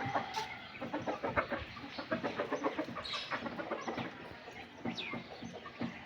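A flock of chickens clucking, with many short, overlapping clucks one after another and a few higher, sharper calls among them.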